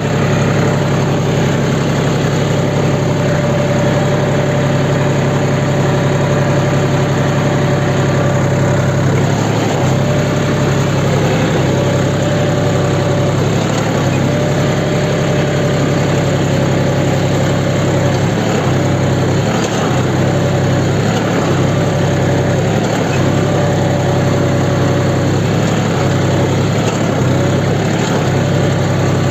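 Tractor engine running steadily at a constant low speed.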